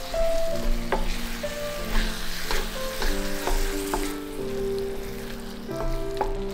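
Ground-beef and tomato sauce sizzling in a cast-iron skillet while a wooden spatula stirs and scrapes through it, with short knocks of the spatula against the pan. The sizzle thins out about four seconds in.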